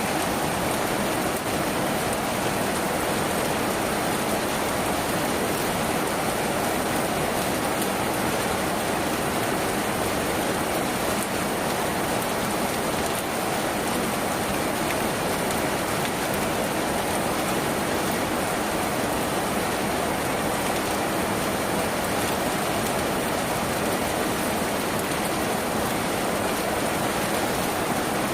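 Steady rain falling on a tin roof, an even, unbroken patter.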